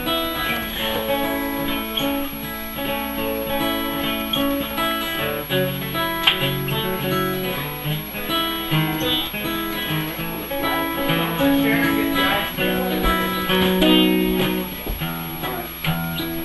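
Acoustic guitar strummed in an instrumental break between the sung verses of a folk-country song, the chords changing every second or so.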